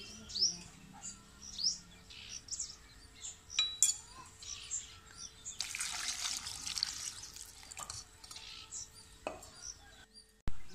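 Small birds chirping, many short high calls repeating again and again, with a brief rush of hissing noise about six seconds in and a few light clicks.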